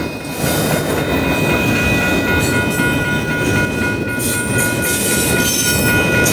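Double-stack intermodal freight train's container well cars rolling past close by: a steady loud rumble and rattle of wheels and cars on the rails, with steady high-pitched tones ringing over it.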